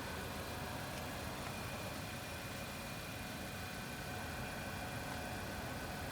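Steady low hum of an idling car engine, with faint steady high tones over it.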